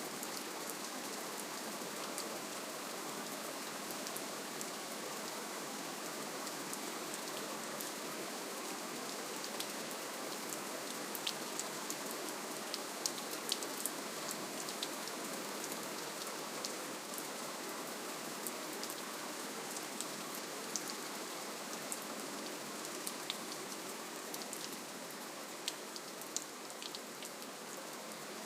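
Steady, gentle rainfall: an even hiss of rain with scattered sharp ticks of single drops landing close by.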